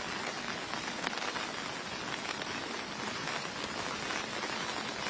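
Heavy rain falling on hard surfaces, a steady, even hiss of countless drops.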